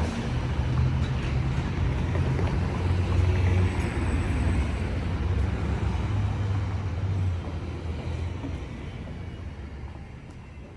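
Low rumble of a motor vehicle's engine in traffic, steady for about seven seconds and then fading away.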